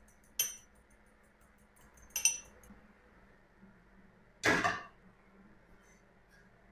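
Kitchenware knocking and clinking: two short, bright clinks about two seconds apart, then a louder, longer clatter about four and a half seconds in.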